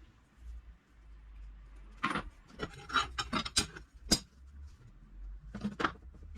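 Metal parts clinking and knocking as they are handled on a workbench: a run of sharp clinks and knocks about two seconds in, then a short pair near the end.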